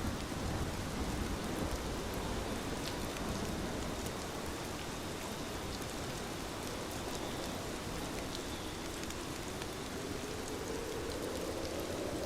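Steady rain falling and pattering on a window: an even hiss with scattered small ticks of single drops.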